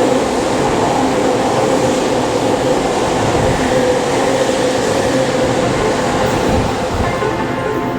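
A Tozai Line train passing through the station without stopping, a loud steady rumble of wheels and motors with a faint steady hum. The noise eases off about seven seconds in as a piano-like melody begins.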